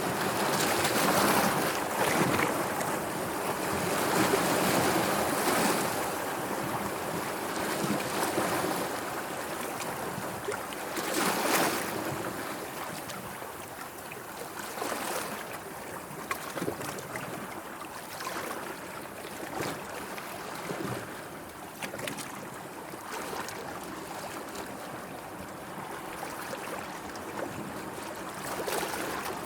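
Small sea waves washing and lapping, with some wind. Louder surges come over the first dozen seconds, with a few brief sharper splashes, one about eleven seconds in.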